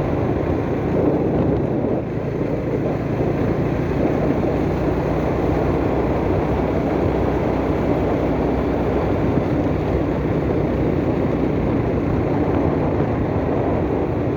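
Steady vehicle engine and road noise from a ride along a road, running evenly without clear changes.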